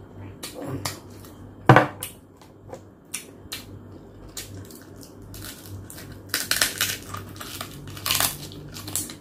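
Biting and chewing roast pork leg (lechon pata), the crisp skin crunching in sharp bursts, with one loud crunch early and a run of dense crunching in the second half.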